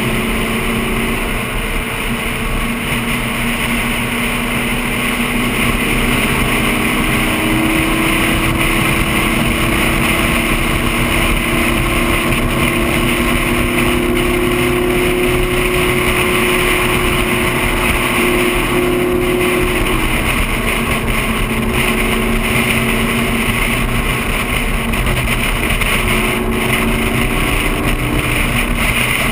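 Lamborghini sports car engine running at a steady highway cruise, its note drifting slightly up and down. Wind and tyre noise rush past the camera on the outside of the car.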